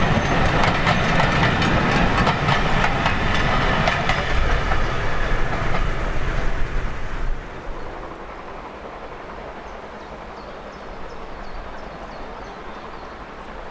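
A train of vintage passenger carriages rolls past, its wheels clicking over the rail joints. About seven seconds in the sound drops away suddenly to a much quieter outdoor background with a few faint high chirps.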